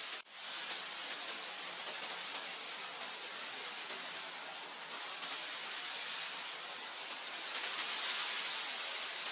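Wind blowing steadily in a hissing rush, swelling near the end, with a brief sudden dip about a quarter of a second in.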